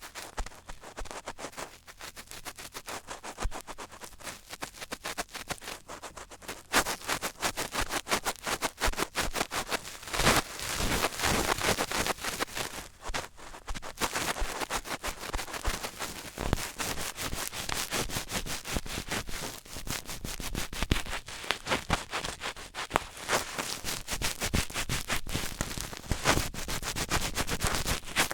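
Close-miked ASMR scratching and rubbing: a dense run of rapid crackling clicks, growing louder and busier about seven seconds in.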